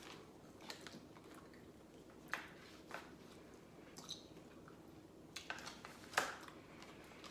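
Close-up eating sounds of a person chewing spare ribs: scattered soft wet mouth clicks and smacks, the loudest a little after six seconds in.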